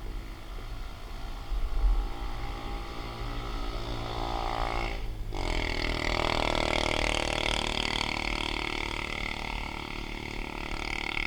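Motor vehicle engine hum along the road, with wind buffeting the microphone. About five seconds in the sound briefly drops out, then a louder rush of passing traffic takes over.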